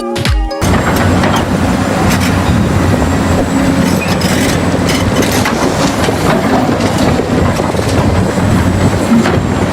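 Steady mechanical running noise of a toy tractor at work, starting as dance music cuts off about half a second in.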